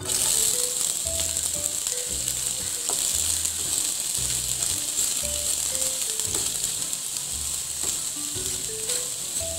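Chopped onions dropped into hot oil in a frying pan, sizzling. The sizzle starts suddenly as they hit the oil and then holds as a steady hiss while they fry.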